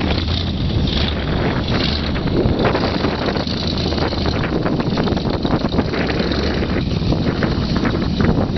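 1977 Corvette's small-block V8 running steadily under load as it drags a big round hay bale, with wind buffeting the microphone.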